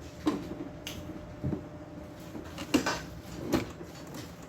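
Scattered knocks and clicks, about five in all, as the casing of an LG mini stereo system is handled and opened.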